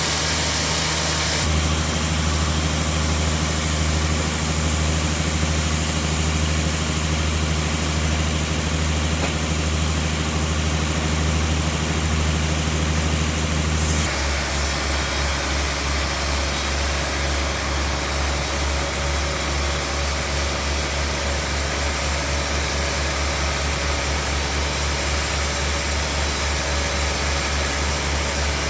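Sawmill bandsaw machinery running with a steady, low, pulsing drone. Its tone changes abruptly twice, about a second in and again about halfway through.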